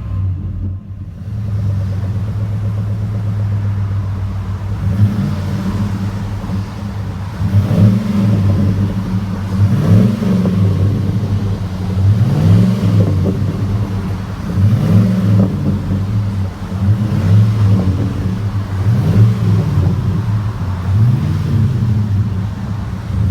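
A 2005 Chevy Silverado's 5.3 L V8 through a Flo-Pro true dual exhaust, idling with a steady deep note. About five seconds in, the throttle starts being blipped, and the engine revs up and drops back roughly every two to two and a half seconds.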